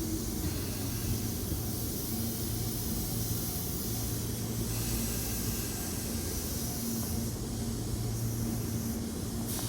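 Tobu Tojo Line electric train at the station, a steady low hum with a hiss over it.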